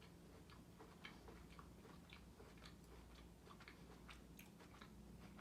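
Faint, irregular crunching of someone chewing a whole mini Kit Kat egg, a chocolate shell with a crispy wafer layer.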